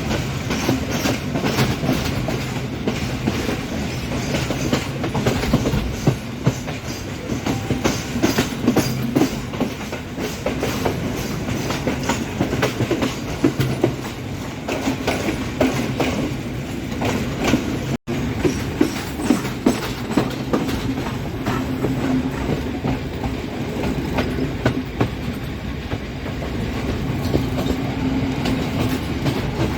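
Sri Lanka Railways Class M6 diesel locomotive's express train running on the line, its wheels clicking over the rail joints, with a steady low hum underneath. The sound breaks off for an instant about two-thirds of the way through.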